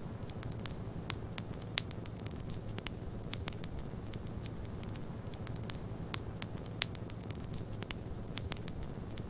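Wood fire crackling in a fireplace: irregular sharp crackles and pops, two of them louder, over a steady low rush of snowstorm wind.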